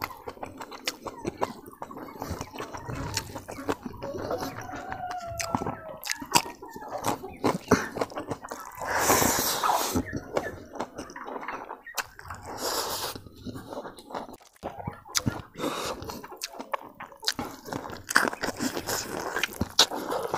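Close-up wet chewing and lip-smacking while eating boiled pork trotter and rice by hand, with many small clicks. A louder breathy rush lasting about a second and a half comes around the middle.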